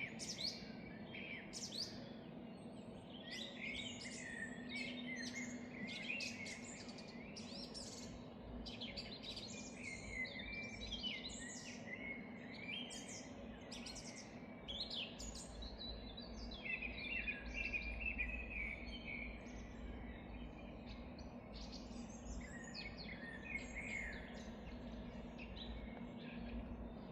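Many birds singing and chirping at once, overlapping short calls and trills in a forest chorus, over a steady low hum.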